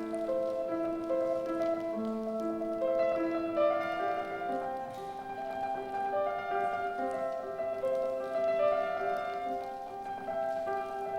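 Piano playing a slow melodic classical passage: a melody of notes held about half a second to a second each, over sustained chords.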